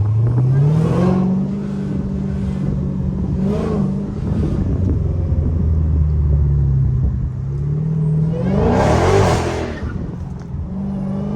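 Straight-piped Dodge Challenger Hellcat's supercharged V8 pulling under acceleration, heard from inside the cabin with the windows down. The engine note climbs about a second in, holds, drops back, then climbs again, with its loudest burst about nine seconds in.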